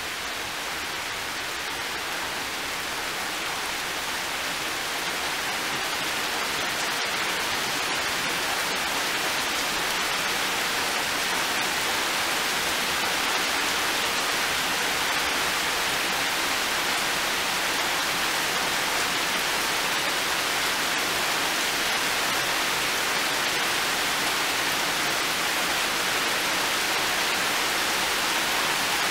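Heavy rain pouring down in a steady hiss, growing heavier over the first ten seconds or so and then holding steady.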